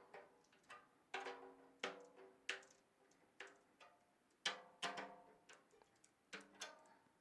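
About ten light, uneven taps on a snare drum's thick coated batter head, each ringing briefly with overtones, as it is checked between turns of the tension rods. The head is still tuned low and quite loose.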